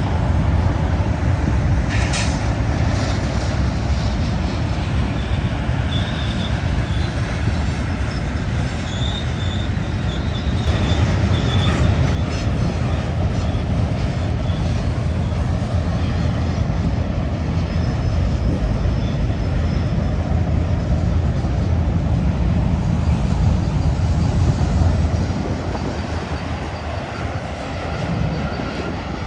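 BNSF manifest freight train rolling past on the curve, a loud steady rumble of wheels and cars on the rails with faint high wheel squeal now and then. The rumble fades near the end as the short train passes.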